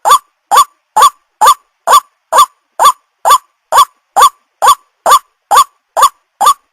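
White-breasted waterhen (ruak-ruak) calling: a short note that rises and then drops in pitch, repeated evenly about twice a second, every note alike.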